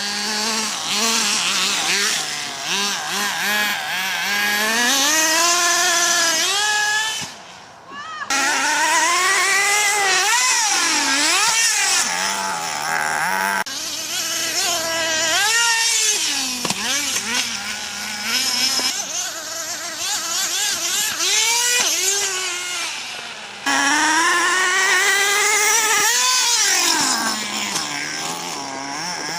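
Small nitro RC car engines revving, a high buzzing whine that rises and falls over and over as the cars accelerate and back off. There are a few abrupt cuts where the sound jumps to another car.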